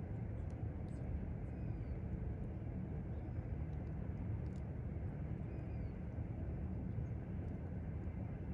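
Evening country ambience: a steady low rumble with a few faint crackles, and a bird giving short falling whistles every couple of seconds.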